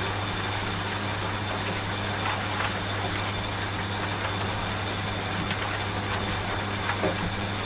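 Steady rain with scattered single drops ticking, over the steady low hum of a running washing machine.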